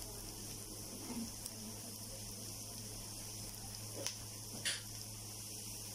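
Chopped onion and garlic sizzling faintly in oil in a frying pan, a steady quiet hiss, with two faint clicks about four seconds in.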